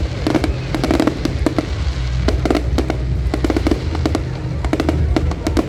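Fireworks display: a dense, continuous run of sharp cracks and bangs from bursting shells over a steady low rumble.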